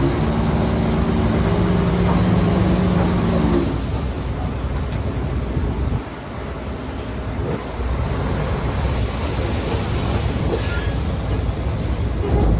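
Heavy diesel earthmoving machinery running: a steady engine note with a pitched whine for the first three or four seconds, then a rough rumble, with a short hiss near the end.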